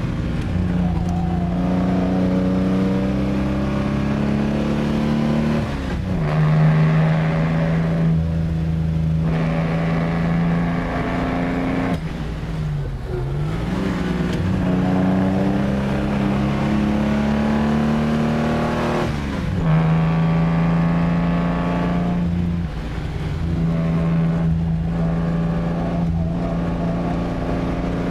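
Lancia Aurelia B20 GT's V6 engine pulling along under load, heard from inside the cabin. The engine note climbs, then drops sharply and picks up again several times.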